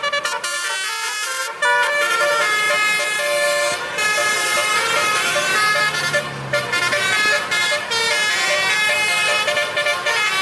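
A truck's basuri, a set of musical air horns, playing a melody note by note, with short breaks between phrases.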